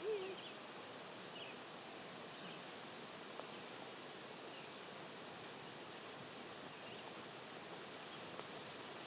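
Quiet outdoor ambience: a steady faint hiss with a few faint, scattered bird chirps.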